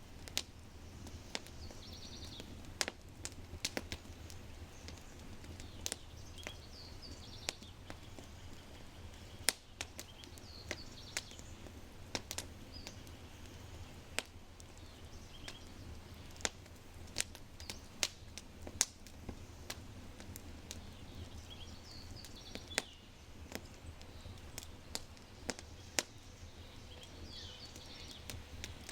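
Oak wood fire crackling in a brick fireplace, with sharp, irregular pops every second or so, while small birds give short chirps now and then in the background.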